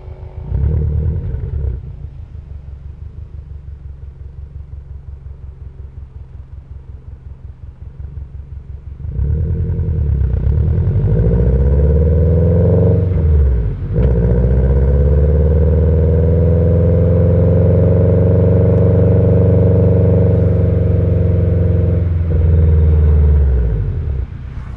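Subaru EJ20 turbo flat-four with stock unequal-length headers and a Kakimoto Regu.06&R muffler, in a five-speed manual Impreza WRX wagon. After a short throttle blip it burbles at low revs for several seconds, then accelerates with rising revs about a third of the way in. It changes gear once, then pulls on at high, steady revs before lifting off near the end.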